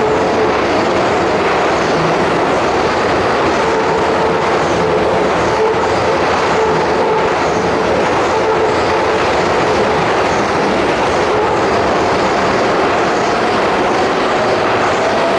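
Keihan electric train moving along the platform: loud, steady wheel and motor noise with a humming traction-motor whine that climbs in pitch near the end as the train speeds up.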